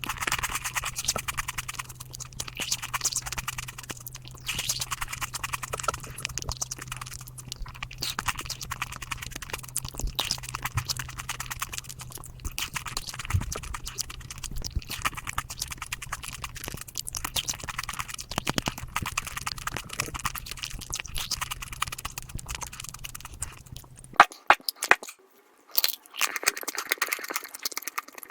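Close-miked eating sounds at five times speed: a dense rattle of fast crunching, chewing and mouth clicks from chocolate being eaten. A steady low hum runs underneath and cuts off suddenly about 24 seconds in, where the clip changes.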